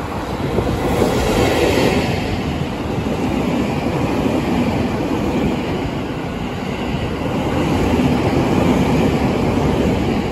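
EF65 electric locomotive passing at close range, followed by the unpowered new commuter cars it is towing on delivery: a steady rolling noise of wheels on the rails, swelling about a second in and again near the end.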